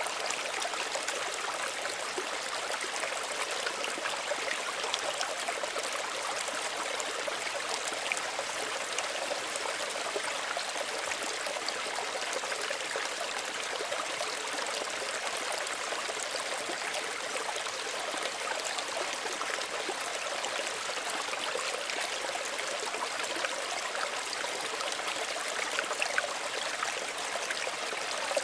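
Small stream running steadily over rocks, a continuous rushing and trickling with small splashes.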